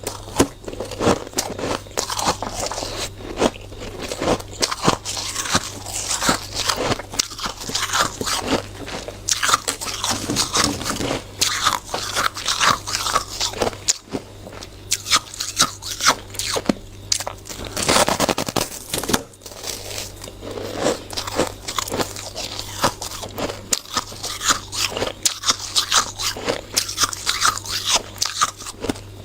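Close-miked biting and chewing of hard, frosty shaved ice: dense, continuous crunching full of sharp cracks, over a faint steady low hum.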